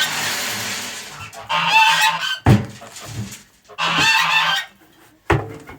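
Domestic geese honking in several short bouts, with a noisy hiss at the start and a few sharp knocks in between.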